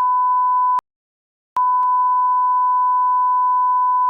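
Steady 1 kHz test tone, as carried on a satellite TV channel's test signal. It cuts off sharply just under a second in, leaves a short gap of silence, and starts again about a second and a half in.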